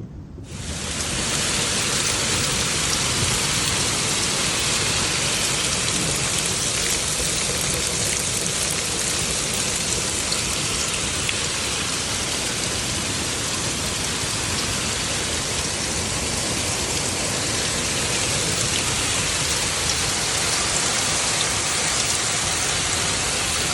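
Heavy rain pouring down in a dense, steady hiss, coming in abruptly about half a second in.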